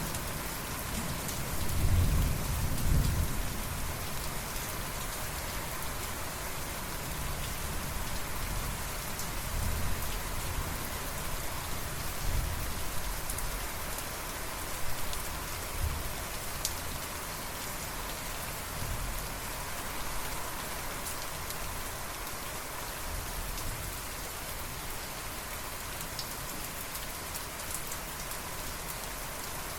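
Steady heavy rain falling on surfaces. A low rumble of thunder swells about two to three seconds in, and fainter low rumbles follow now and then.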